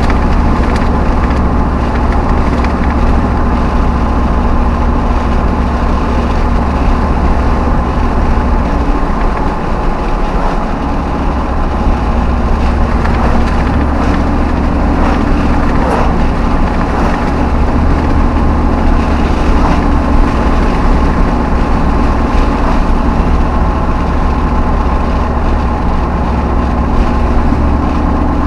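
V8 Hemi pickup truck driving: a loud, steady engine and exhaust drone mixed with road noise. The engine note eases off about nine seconds in and shifts pitch again a few seconds later, as the speed changes.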